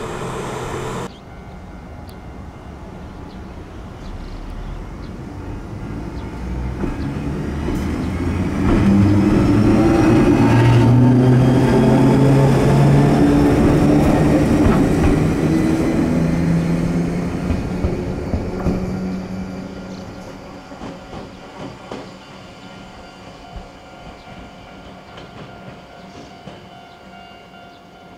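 Electric train on the Chichibu Railway running past: it builds up over several seconds, is loudest in the middle with a low steady hum and wheels clattering on the rails, then fades away.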